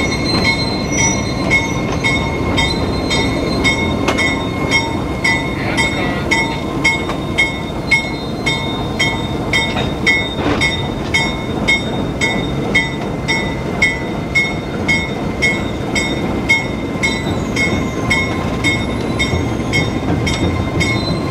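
Freight train rolling slowly on the rails: a steady rumble with a regular squeak and click about twice a second.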